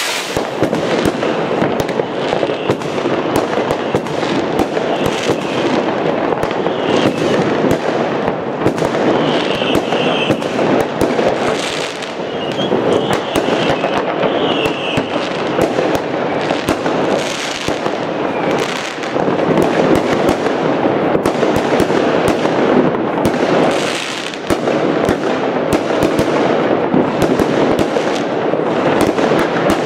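Dense, continuous fireworks: countless firecrackers and rockets going off at once, a steady crackling din packed with sharp bangs.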